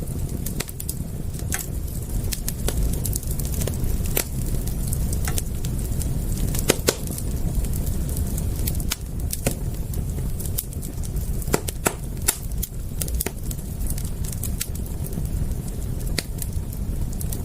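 Wood fire crackling, with irregular sharp pops and snaps over a steady low rumble; two louder pops come about seven and twelve seconds in.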